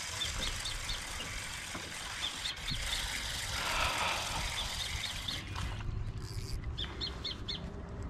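Small birds chirping: short, high chirps in scattered runs of two to four, over a steady low rumble.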